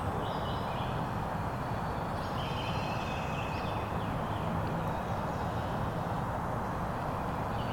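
Steady rushing outdoor background noise, with a few faint high calls, like distant birds, a few seconds in.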